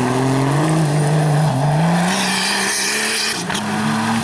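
A 4x4 race vehicle's engine running hard, its pitch climbing slowly with small dips, with a short click about three and a half seconds in.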